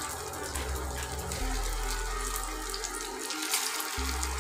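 Poha cutlets sizzling steadily in hot refined oil in a non-stick frying pan as more are laid in.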